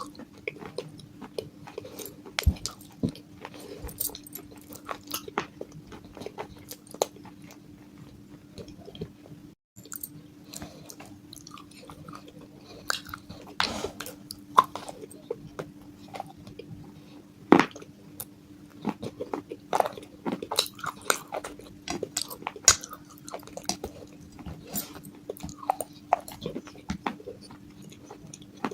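Bites and chewing of broken clay-pot pieces: irregular, crisp crunches and cracks, some sharper than others, over a faint steady hum.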